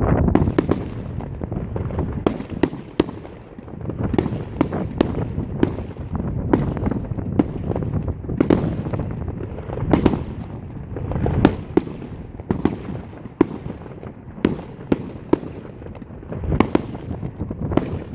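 Fireworks display: a dense, irregular string of sharp bangs and crackles, several a second, over a deep rumble of booms.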